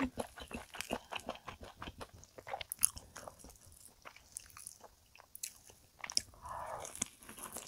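Close-miked chewing of crispy fried chicken, with many small crunches. It goes quiet for a couple of seconds in the middle, then comes a bite into a fried chicken drumstick near the end.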